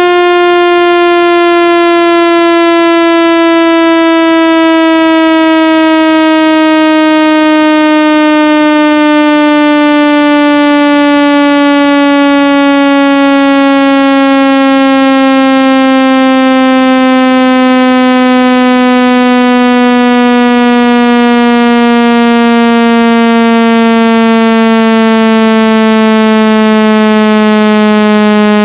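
Loud synthesized buzzy tone, full of overtones, sliding slowly and smoothly downward in pitch: a speaker-cleaning tone meant to shake water and dust out of a phone's speaker.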